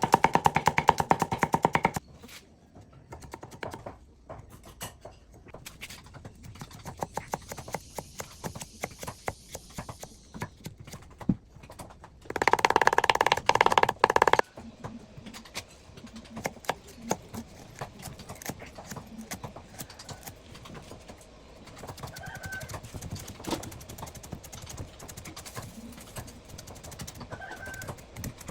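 Rapid, irregular knocking of spices being prepared for Balinese spice paste, with two short bursts of music, one at the very start and one about halfway through.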